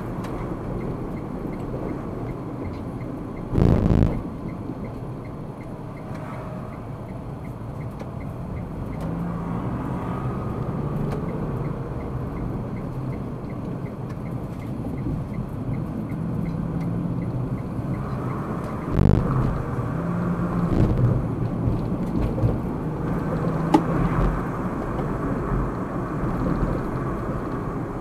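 Car driving in city traffic: steady engine and tyre road noise, with a few short thumps, about four seconds in and twice more near two-thirds of the way through.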